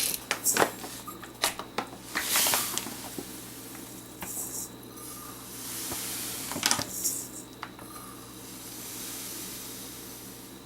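Kitchenware clinking and knocking, with a few longer hissing stretches of pouring, as sugar and vinegar are measured out and poured into a pot for a pickle brine.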